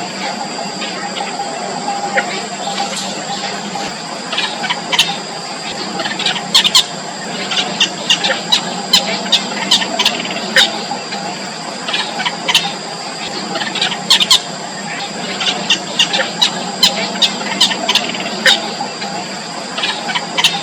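Nestlings giving high-pitched begging peeps: many short, sharp calls in irregular clusters, over a steady high whine and a low background hum.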